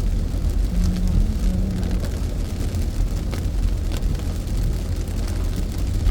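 Car driving on a wet road, heard inside the cabin: a steady low rumble of engine and tyres, with scattered light ticks of rain on the car.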